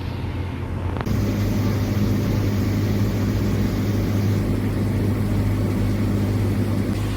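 Steady low drone of a car driving along, engine and road noise, growing louder about a second in.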